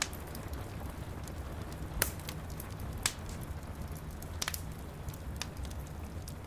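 Wood fire crackling in a fireplace, with scattered sharp pops, the loudest about two and three seconds in, over a steady low rumble and the soft hiss of rain.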